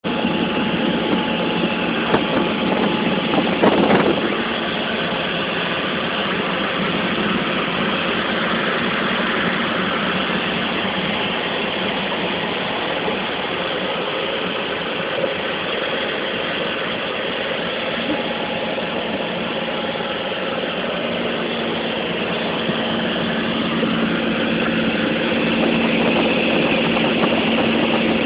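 Cessna 170's six-cylinder piston engine and propeller running steadily in flight, heard from inside the cabin, with a brief louder rush about four seconds in.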